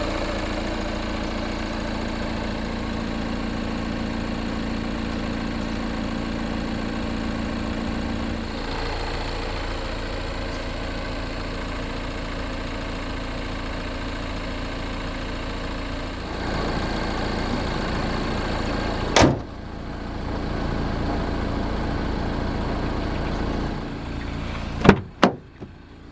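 The 2021 Renault Trafic's 2.0-litre twin-turbo diesel four-cylinder idling steadily. A single sharp bang comes about two-thirds of the way through and two more close together near the end.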